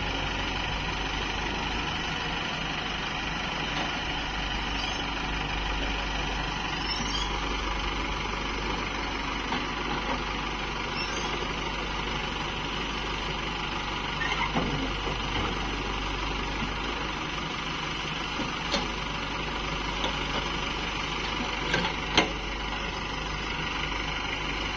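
Heavy diesel engine running steadily, with a few short knocks in the second half.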